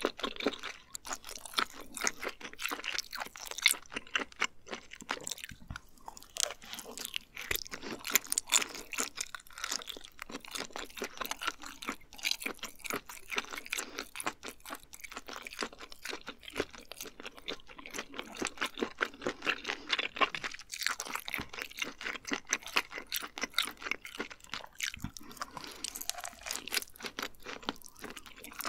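Close-miked chewing of seared abalone: a steady, dense run of crunching and mouth clicks.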